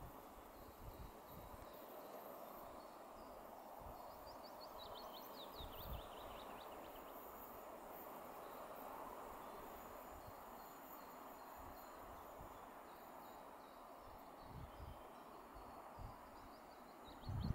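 Faint outdoor ambience beside a railway line in woodland, with a songbird singing a quick run of descending notes about four seconds in and again at the very end. A few brief low thumps from wind buffeting the microphone.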